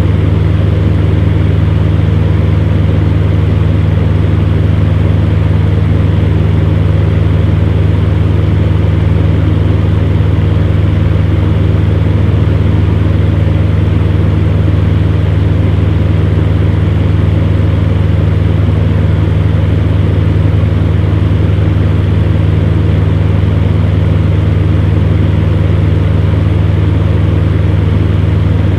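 Electric fan heater running steadily: a continuous low hum with an even rush of blown air, unchanging throughout.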